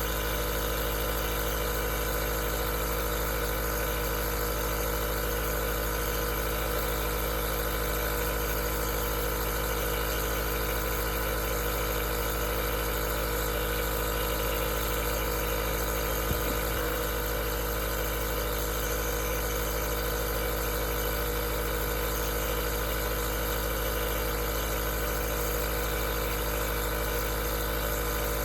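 Aerosol nebulizer running steadily: a constant motor hum with a hiss over it. There is a faint click about halfway through.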